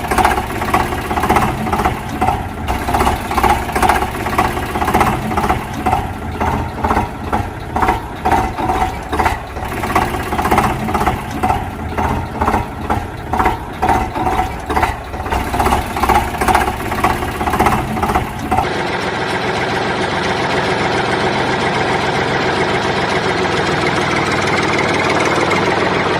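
Tractor engine running with a throbbing beat about twice a second. About two-thirds of the way through it cuts abruptly to a steadier, even engine drone.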